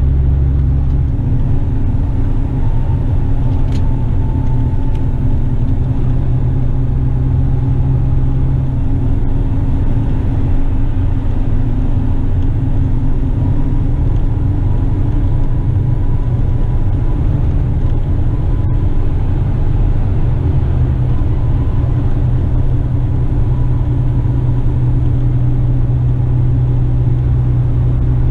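Western Star tipper truck's diesel engine running steadily while driving, heard from inside the cab. Its low note shifts a few times, about a second in, around a third of the way through and again later.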